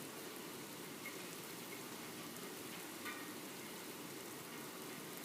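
Rain falling steadily as an even hiss, with two light drip ticks, one about a second in and another about three seconds in.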